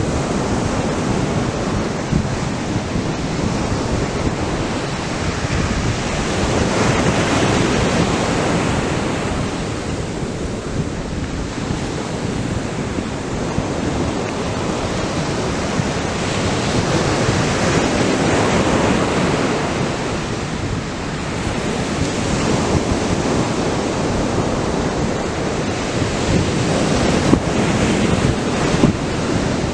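Atlantic surf breaking on a sandy beach: a steady wash of waves that swells and eases every few seconds as each breaker comes in, with wind buffeting the microphone.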